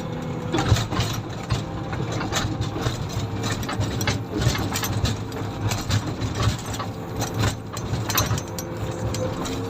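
Komatsu motor grader's diesel engine running steadily, with many short clanks and rattles over it throughout.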